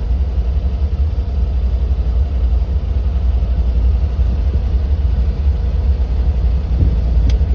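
1955 Ford Thunderbird's Y-block V8 idling steadily on a Summit four-barrel carburetor shortly after a cold start, with a low, even rumble and the idle holding strong. A single sharp click near the end.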